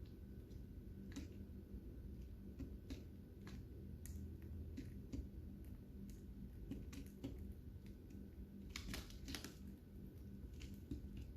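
Lovebirds cracking and nibbling seeds: faint, irregular sharp clicks, with a quick cluster of them about nine seconds in.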